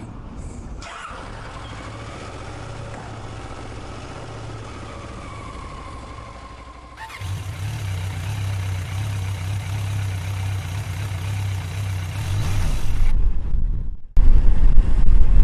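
Motorcycle engine running in city traffic, heard from the bike while riding, with other vehicles passing. The sound jumps at abrupt cuts, getting louder about halfway through and much louder with rumbling wind noise near the end.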